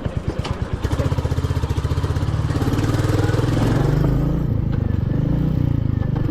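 Royal Enfield Meteor 350's single-cylinder engine ticking over with an even exhaust thump, then pulling away about a second in, the beat quickening and getting louder as the bike accelerates.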